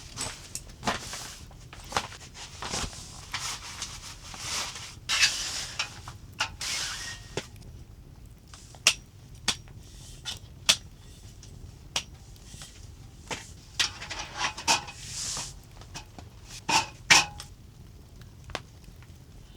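Irregular small knocks, clicks and rustles of things being handled, with a few sharper knocks near the end.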